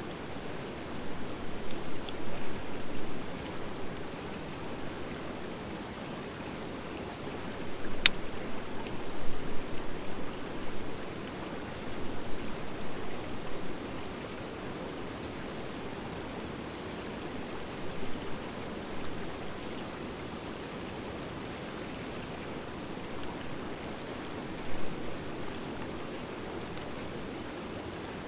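Campfire of driftwood mixed with dry hardwood logs burning: a steady rushing noise with scattered crackles and pops, the sharpest pop about eight seconds in.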